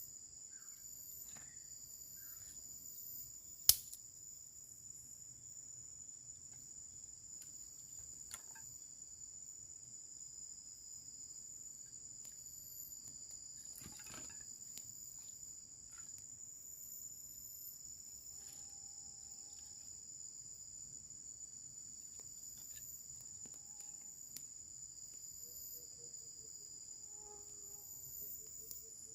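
Steady, high-pitched chorus of forest insects trilling without a break. A single sharp click cuts through it about four seconds in.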